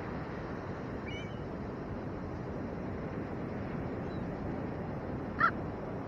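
Steady rush of surf and wind. A faint short bird chirp comes about a second in, and one loud, short bird call from the flock of ravens and gulls comes near the end.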